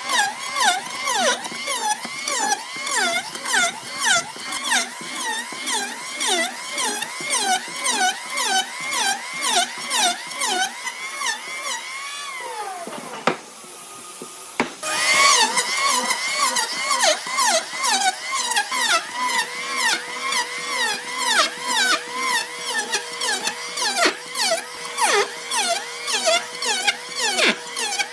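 A power tool's motor under repeated load, its pitch dropping and recovering about one to two times a second as it bites into the wood, with a short pause about halfway through.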